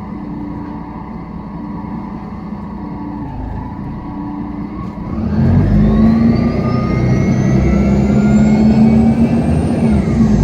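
Mercedes-Benz city bus engine running steadily at low revs, then about five seconds in it gets louder as the bus accelerates, with a whine climbing steadily in pitch that dips back near the end.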